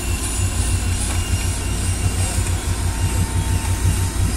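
SUV engine running with a steady low drone while a vehicle mired in creek mud waits on a tow strap for recovery.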